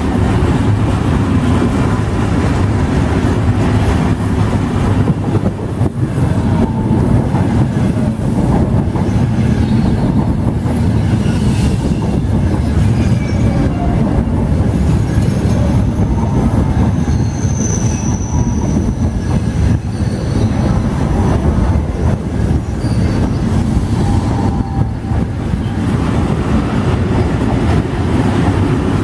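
Passenger train passing at speed: a steady, loud rumble of wheels on the rails, with a brief high-pitched squeal about two-thirds of the way through.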